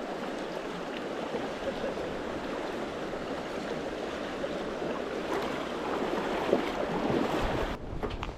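Steady rushing of the Russian River's flowing water, with a sudden change in the sound near the end.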